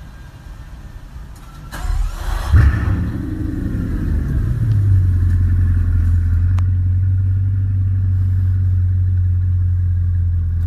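Bugatti Chiron's W16 engine starting: a rush of noise, a sharp loud thump as it fires about two and a half seconds in, then it settles into a steady, deep idle.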